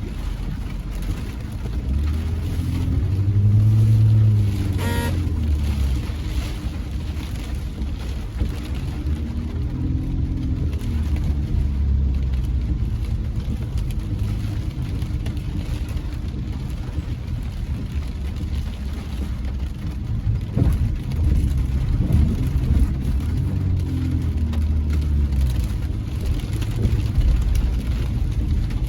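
Car driving, a low engine and road rumble whose pitch rises and falls several times, with a brief sharp sound about five seconds in.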